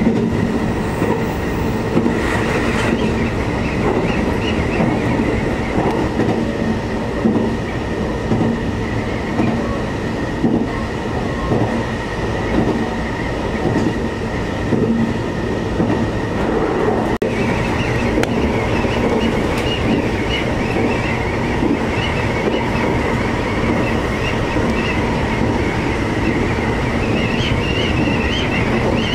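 Cabin running noise of a three-car JR Hokkaido 733 series electric train at speed: a steady rumble of wheels on rail with a steady whine over it. Past the middle the noise briefly dips, then turns brighter and hissier.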